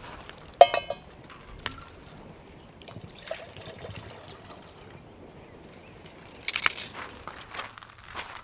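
Water being poured and handled among metal camp cookware: a sharp ringing metal clink about half a second in, then light clatter, and a burst of clattering knocks about six and a half seconds in.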